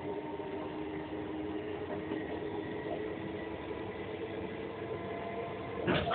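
Steady running noise heard inside a moving ScotRail passenger train carriage: an even rumble with a few steady humming tones, and one brief knock near the end.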